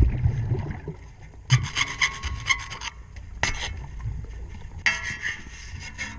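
Propeller being scrubbed underwater: bouts of rapid, rhythmic scraping as marine growth is worked off the blades, with quieter gaps between.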